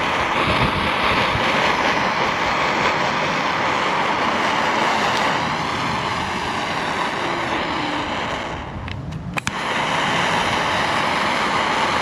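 Heating tool blowing with a steady rushing hiss, warming the crimped ends of a cable so they melt on. It drops out briefly about nine seconds in, then starts again.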